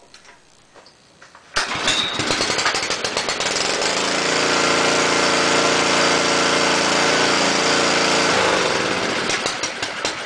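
Small Honda four-stroke engine on a restored rototiller starting up about one and a half seconds in, then running steadily: the newly installed motor coming to life. Near the end its pitch drops as it slows down.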